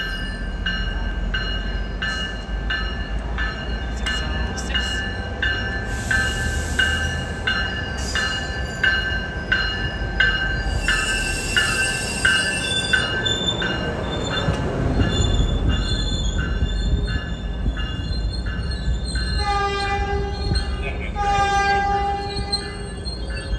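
Trinity Railway Express commuter train with its diesel locomotive rumbling, a bell ringing about twice a second, and two horn blasts near the end.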